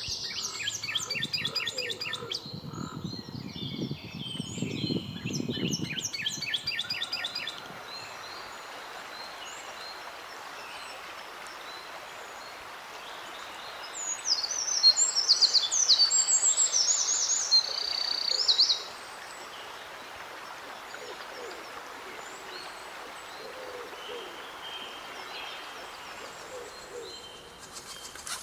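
Wild birds singing and calling. Several birds give dense, rapid trills for the first seven seconds or so. After that a steady background hiss carries on, and a loud, high-pitched song breaks in for about five seconds near the middle.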